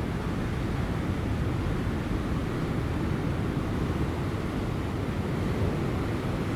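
Ocean surf breaking on rocks offshore, a steady low rumble of waves with light wind buffeting the microphone.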